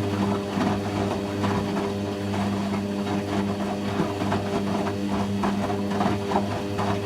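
Hoover Quattro AE130 washing machine running: a steady hum with many small irregular clicks and knocks over it.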